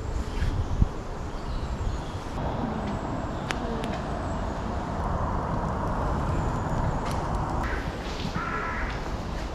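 A bird gives a short series of harsh, caw-like calls near the end, over a steady low outdoor rumble.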